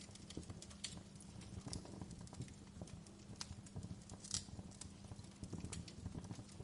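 Fireplace crackling: irregular pops and snaps over a low rumble, with a faint steady hum underneath.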